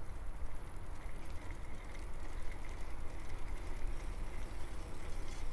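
Wind rumbling on the microphone, with rolling noise from a bicycle in motion.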